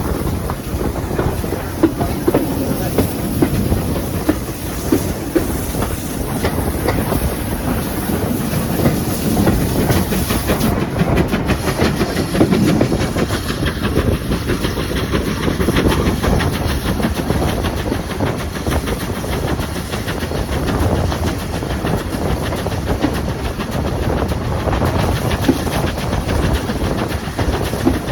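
A train running along the track: a steady rumble of wheels on rails, with many small irregular clicks.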